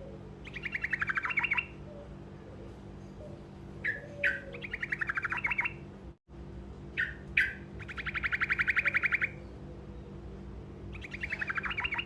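A songbird known to Indonesian bird keepers as the truco, singing short rolling trills. Each trill is a fast run of evenly spaced notes lasting about a second, and some are led by one or two sharp chips. There are four trills over a steady low hum.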